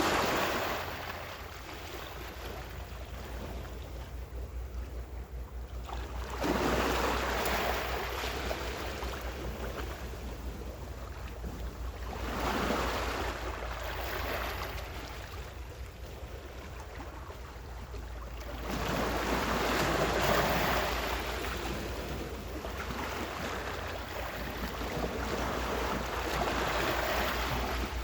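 Ocean waves washing onto the shore, a hissing surge about every six seconds that swells and fades, over a steady low rumble of wind on the microphone.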